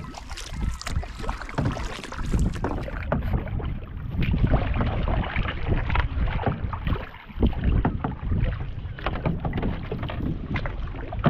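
Canoe being worked in shallow water: irregular water splashing and sloshing with repeated knocks and bumps, over a low wind rumble on the microphone.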